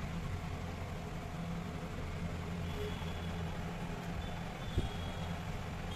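Steady low motor hum with an even background noise, and a single short knock near the end.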